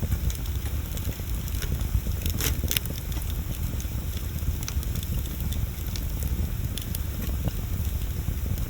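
Wood bonfire burning, with scattered sharp crackles and pops and a small cluster of them about two and a half seconds in, over a steady low rumble.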